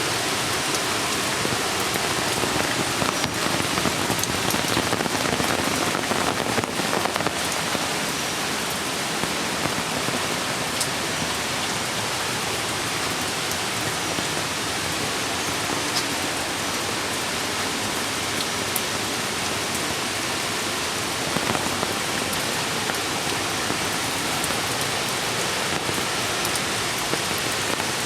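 Steady rain, an even hiss with scattered ticks of single drops.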